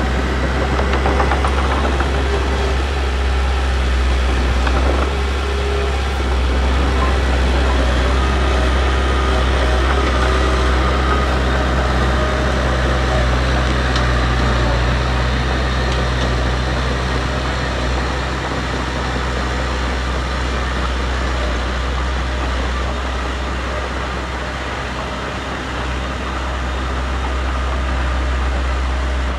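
Heavy diesel engine of earthmoving machinery running steadily, a low rumble with rough mechanical noise over it.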